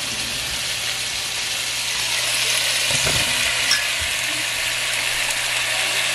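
Quartered raw potatoes sizzling in hot oil and curry paste in a pot. The water has cooked out of the curry base, so they fry rather than simmer. The sizzle grows a little louder after about two seconds, with a low knock about three seconds in.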